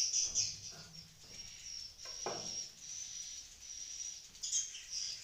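Swiftlets twittering in high, rapid chirps, loudest at the start and again near the end. About two seconds in, a brief sound sweeps downward in pitch.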